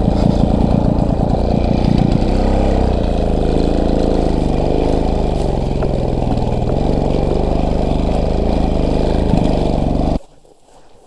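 Motorcycle engine running close by, its revs rising and falling as it is ridden, then cutting off suddenly near the end.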